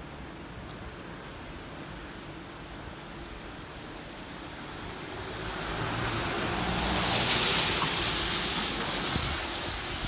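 A vehicle driving past on a wet road: tyre spray hiss and engine rumble swell up about halfway through, peak, then fade, over steady wet street traffic noise.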